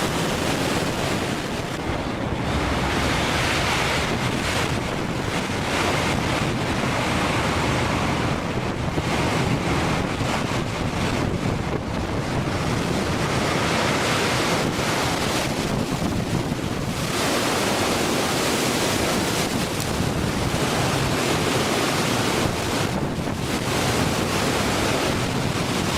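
Storm wind and heavy seas on a cargo ship: a continuous rush of wind buffeting the microphone, mixed with waves washing over the deck, swelling and easing without a break.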